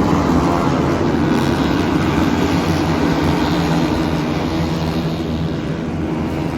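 An engine running loudly and steadily at an even pitch, easing off slightly near the end.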